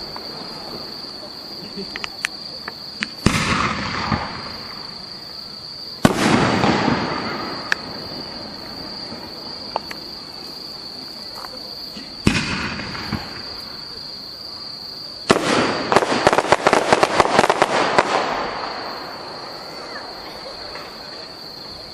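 Aerial firework shells bursting in the sky: single booms with long echoing rumbles about three, six and twelve seconds in. Near the end comes a rapid volley of many crackling reports lasting about three seconds. A steady high-pitched tone runs underneath throughout.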